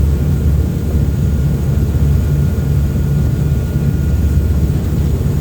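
Uber Boat river catamaran under way at speed: a steady, loud low rumble of its engines and the rushing water.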